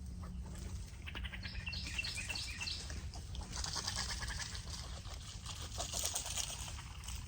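A chorus of woodland birds calling and singing. About two seconds in there is a quick run of five repeated whistled notes, and later dense, harsh chattering, all over a steady low rumble.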